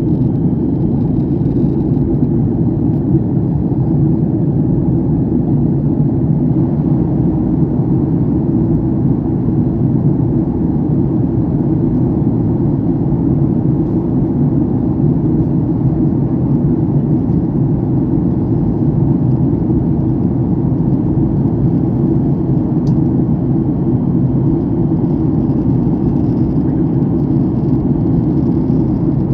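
Steady cabin noise of an airliner in flight: an even, low rumble of engines and airflow that does not change.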